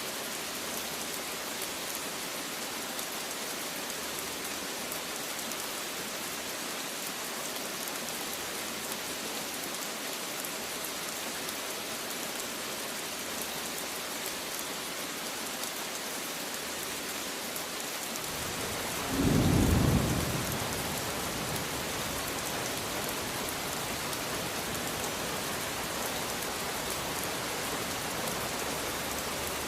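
Steady rain falling with an even hiss. About two thirds of the way through, a low rumble of thunder rises for about two seconds and is the loudest sound, then the rain carries on.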